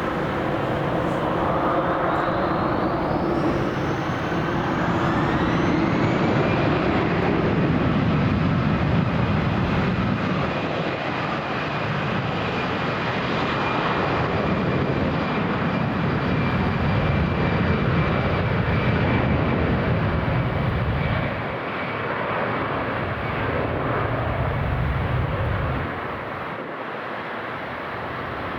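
Jet airliner engines running loud: a steady roar with a whine that rises in pitch over the first few seconds, then holds steady, and the roar eases near the end.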